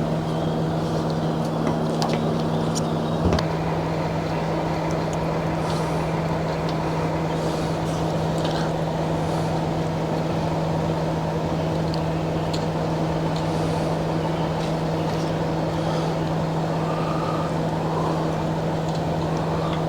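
Steady mechanical hum at an even level, with a few light clicks and a single knock about three seconds in.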